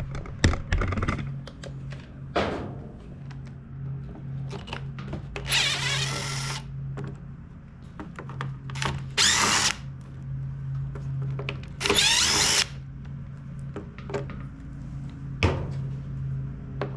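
A power drill-driver spinning out screws from the blower's housing in three short bursts, with clicks and knocks of handling in between and a steady low hum underneath.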